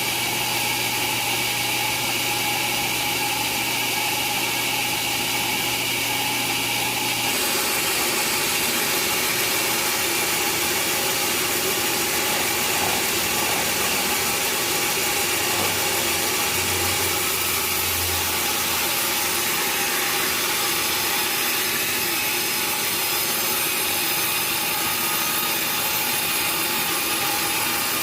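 Sawmill saw and machinery running steadily. About seven seconds in, a low hum drops out and the sound shifts.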